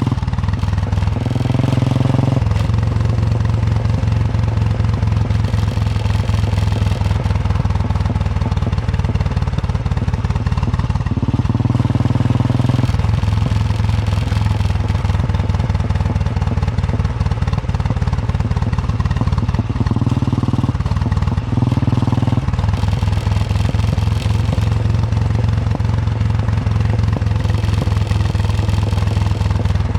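Royal Enfield Bullet 350's single-cylinder four-stroke engine thumping steadily under way. Its note shifts three times, about a second in, around twelve seconds in, and around twenty-one seconds in, as the engine speed changes.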